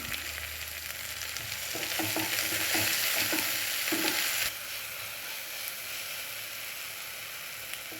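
Chopped tomato and onions sizzling in hot oil in a pan while being stirred, with a few light knocks of the spoon. The sizzle is loudest in the first half and drops suddenly to a softer steady hiss about four and a half seconds in.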